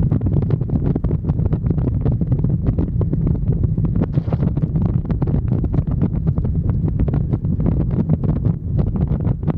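Riding on a motorcycle: wind buffeting the microphone in constant irregular gusts over a steady low drone from the bike at cruising speed.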